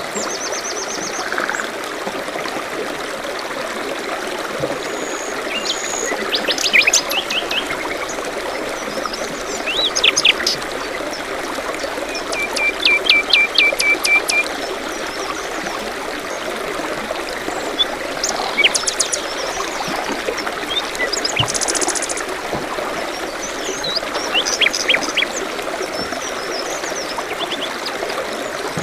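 A stream trickling and running steadily, with songbirds chirping and trilling over it: several short bursts of repeated notes, one of them a run of quick notes lasting about two seconds.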